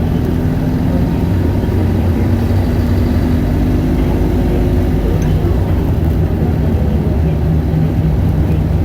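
Isuzu Erga city bus's four-cylinder diesel engine running steadily while the bus drives, with a low drone and road noise.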